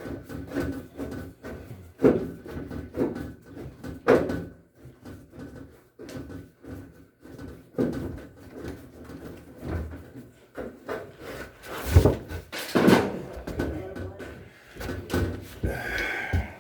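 Irregular knocks and clunks of hand tools and washing machine parts being handled and set down, with louder hits about two, four and eight seconds in and a pair of sharp bangs near the end.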